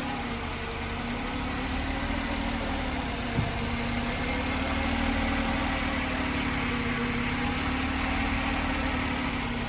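1993 Jaguar XJ6's straight-six engine idling steadily, with one brief click about three and a half seconds in.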